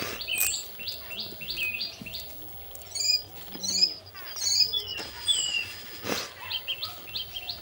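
Several wild birds singing: a fast run of repeated chirps, about four a second, near the start and again near the end, with other birds' whistled, sliding notes in between.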